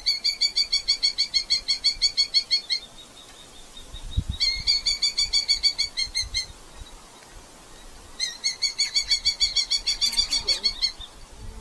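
Red-footed falcon giving a rapid chattering call: three bursts of sharp repeated notes at about seven a second, each lasting two to three seconds.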